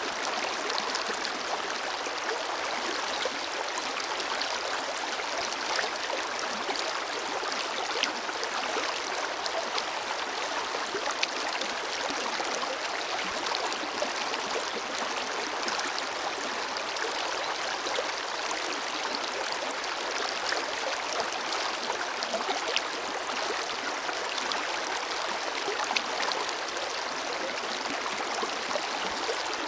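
Forest river flowing steadily over stones, a constant rush of water with small splashes and gurgles scattered through it.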